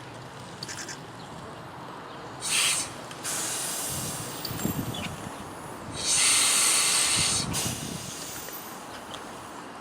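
Steam locomotive letting off steam in hissing bursts: a short loud blast about two and a half seconds in, a steadier hiss for a couple of seconds, then a louder, longer hiss about six seconds in.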